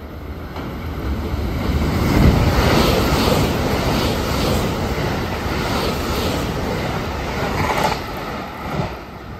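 JR West limited express electric train passing through the station at speed. Its running noise builds as it approaches, is loudest about two seconds in with a regular clatter of wheels, then fades as it runs on near the end.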